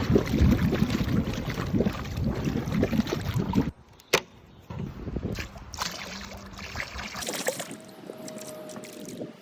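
Water sloshing and splashing, loud for the first few seconds, then quieter, with a sharp click about four seconds in.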